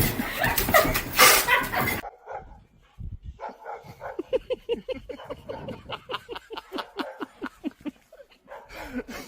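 A loud rush of noise for about two seconds, then a dog yipping in a quick run of short barks, about four or five a second.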